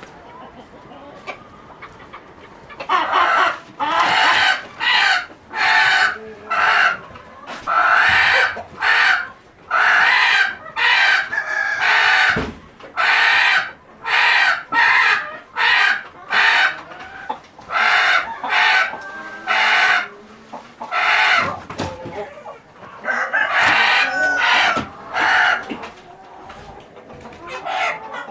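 Chickens calling loudly: a long run of repeated squawking calls, about one or two a second, starting about three seconds in and dying down near the end.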